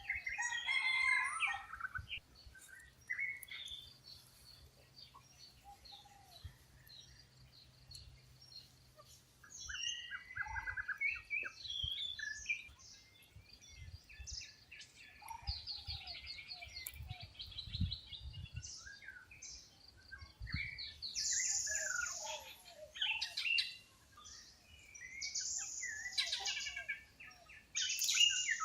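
A mix of wild bird calls and chirps: short chirps, a quick rattling trill and several high drawn-out calls. Faint low thumps run beneath the calls.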